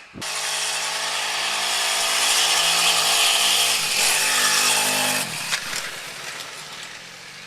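Honda GX25 25 cc four-stroke engine of a homemade motorised bicycle running at high revs, its note dropping to lower revs and quieter about five seconds in.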